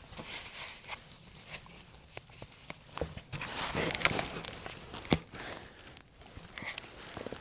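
Rustling of clothing and gear with scattered small knocks and clicks, as a person shifts position and handles equipment; the busiest rustle comes about halfway through, followed by a sharper knock.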